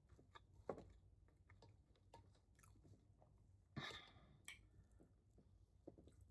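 Faint chewing with small wet mouth clicks, close to the microphone. Just before four seconds in comes a louder, crunch-like bite, followed by a sharp click.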